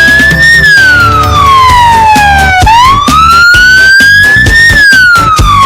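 A siren wailing in a slow rise and fall, each sweep taking about two seconds: the pitch falls, rises again about halfway through, then falls once more. Music with a steady beat plays underneath.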